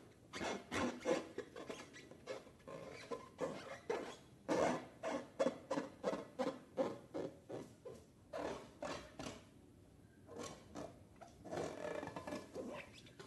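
Slime-filled balloons being squeezed and handled: a fast run of short squishing, rubbing squeaks, a few a second, thinning out briefly about two-thirds of the way through.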